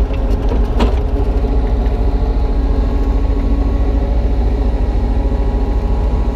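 Kubota U35-3 mini excavator's diesel engine running steadily while digging, with a single sharp knock just under a second in.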